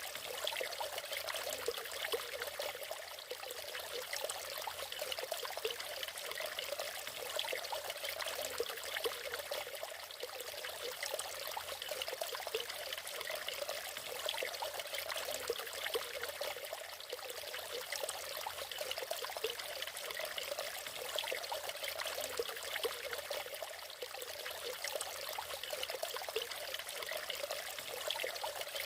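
A natural waterfall: water pouring and splashing steadily, a fine, even rush with little deep rumble.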